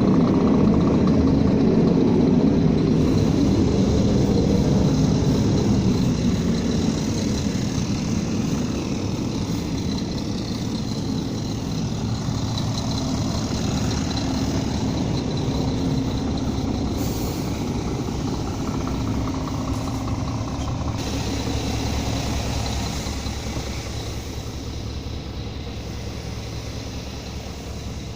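Scania G440 truck's 13-litre inline-six diesel engine running steadily. It is loudest in the first few seconds, then a little quieter, and fades slightly near the end.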